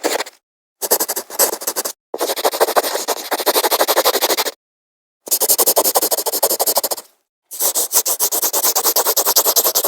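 Pen scribbling fast back and forth on paper, colouring in, many strokes a second in about five bursts broken by short, abrupt silences.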